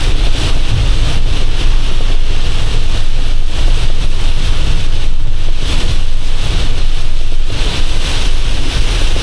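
Box truck driving in heavy rain, heard from inside the cab: a loud, steady low rumble with a hiss of rain and wet-road noise.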